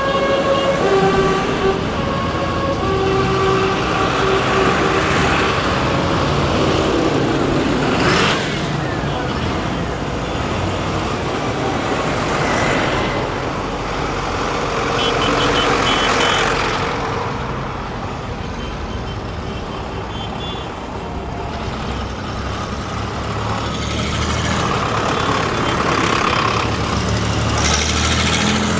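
Tractors driving past one after another, the engine sound swelling and fading as each one passes. A horn sounds in short toots during the first few seconds.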